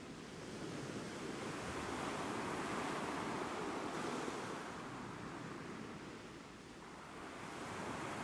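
Ocean waves washing in surf: a steady rush that swells over a few seconds, eases off, and begins to build again near the end.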